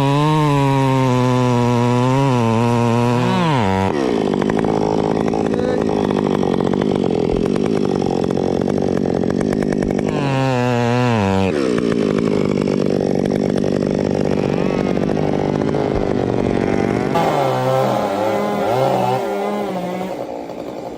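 Two-stroke chainsaw running at high revs, its pitch dropping off as the throttle is released about four seconds in and again about eleven seconds in. It runs on with an uneven, wavering rev near the end.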